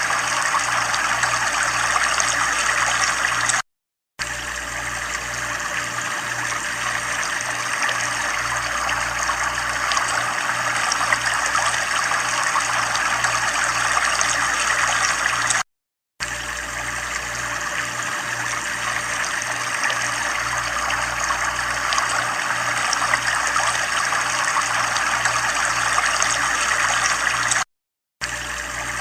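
Steady running water with a faint low pulsing hum underneath. The sound cuts out to silence for about half a second three times, roughly every twelve seconds.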